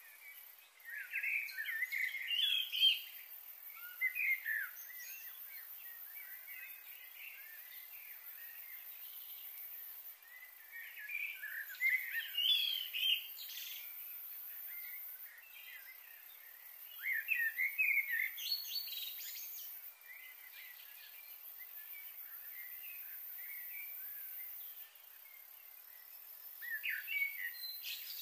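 Birds chirping and calling in four separate bouts of quick, varied notes, with steady faint background noise in between.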